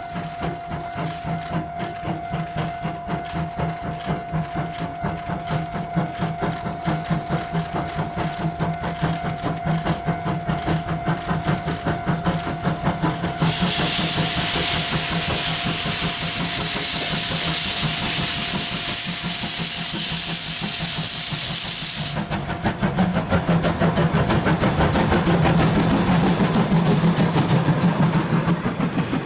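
Steam locomotive C12 66 working with rapid, rhythmic exhaust beats. About halfway through, a loud hiss of released steam joins in and cuts off suddenly some eight seconds later, while the beats carry on.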